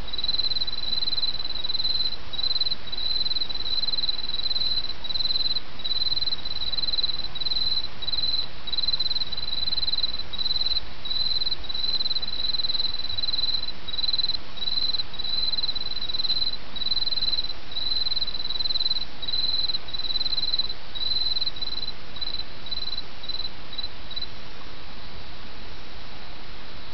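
An autumn cricket chirping in short, even pulses, about two a second, over the steady rush of a small stream. The chirps shorten and stop near the end while the stream runs on.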